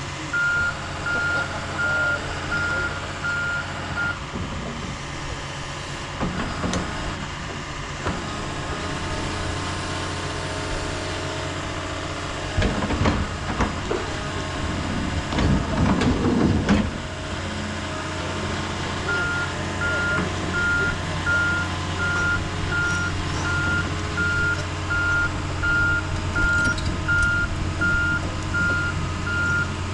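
Backup alarm on heavy equipment beeping at a steady, even rate over a running diesel engine. The beeping stops after about four seconds and starts again past the middle. In between, a louder stretch of engine and machine noise lasts a few seconds.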